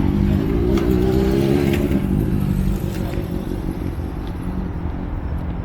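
Car engine running loud, revving up about half a second in and easing back after about two seconds.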